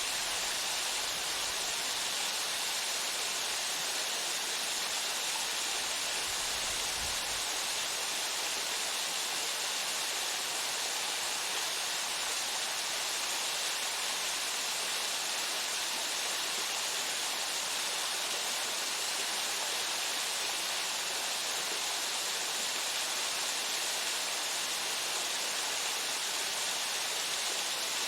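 Waterfall running steadily: an even, unbroken rush of water falling and splashing, strongest in the upper range.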